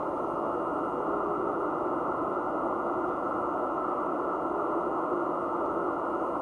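Shortwave band noise from an Icom IC-7600 transceiver tuned to the 15 m band in CW mode: a steady hiss held below about 1.5 kHz by the receiver's filter, with faint weak tones buried in it.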